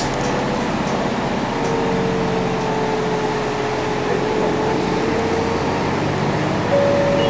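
Interior of a 2006 UD Space Runner RA city bus: the diesel engine running with a steady hum and a whine that dips and rises slightly in pitch, heard from the passenger cabin. About seven seconds in, the sound steps up with a higher tone.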